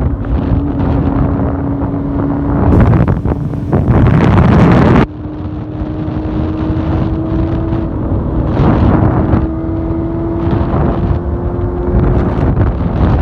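Quad bike's converted Honda CBR600F2 inline-four engine running at high revs under way, with wind buffeting the microphone. A louder rush of wind and engine from about three seconds in cuts off suddenly near five seconds, after which the engine note climbs slowly.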